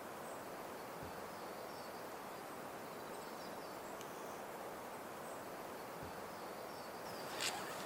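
Forest ambience: a steady hiss with faint high chirps repeating about once a second, broken near the end by one sharp snap.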